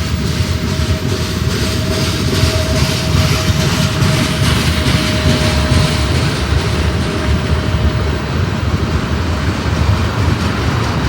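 Freight train rolling past: a continuous rumble of railcars with the clack of wheels over rail joints. A thin steady squeal runs through it and fades out about eight seconds in.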